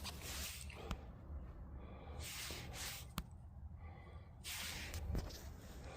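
Ariens AX snowblower engine cranked over by three pulls on the recoil starter for a spark check, each pull a short hissing whoosh about two seconds apart, with a couple of sharp clicks between them.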